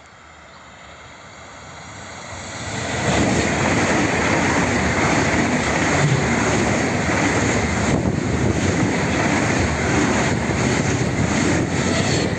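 ICE high-speed train approaching and passing close by at speed. A rushing noise builds over the first three seconds, then stays loud and steady as the carriages go by.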